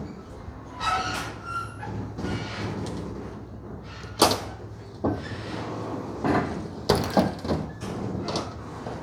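Metal parts being handled: a ringing clank, then a series of sharp bangs and knocks, the loudest about four seconds in. A steady low hum runs underneath.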